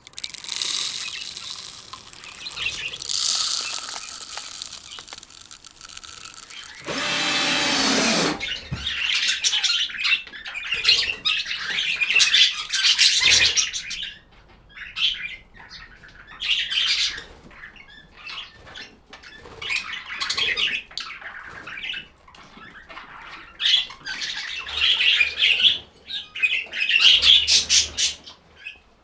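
Pet budgies chirping and chattering in many short, high bursts. A stretch of rustling noise fills the first several seconds.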